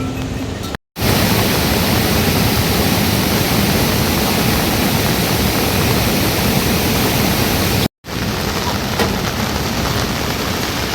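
Steady rushing water noise, dense and even. It cuts out abruptly twice, about a second in and about eight seconds in, and comes back at once each time.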